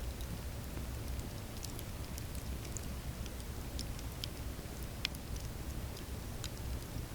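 Campfire burning, the wood crackling with scattered sharp pops, one louder pop about five seconds in, over a low steady rumble.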